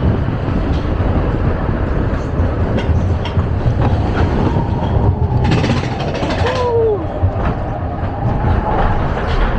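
Matterhorn Bobsleds coaster car running along its track: a steady rumble and rattle. About five and a half seconds in there is a burst of hiss lasting about a second, and a short squeal that bends in pitch.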